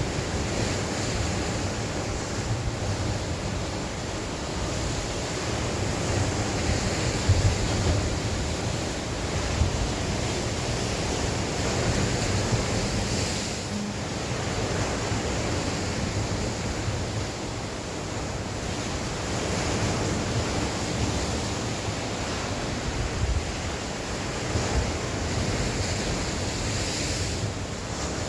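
Sea waves washing in, with wind blowing over the microphone as a steady low rumble. The wash swells into a louder hiss about halfway through and again near the end.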